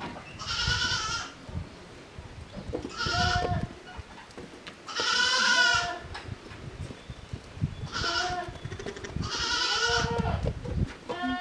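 Goats bleating repeatedly: about six calls of a second or less each, one every couple of seconds, with short low knocks in between.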